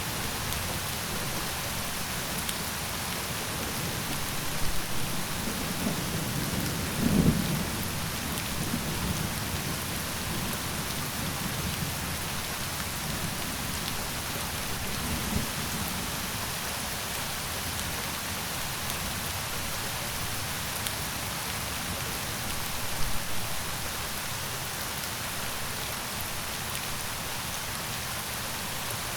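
Steady rain falling and pattering on surfaces, an even hiss throughout. A few brief low rumbles rise out of it, the loudest about seven seconds in.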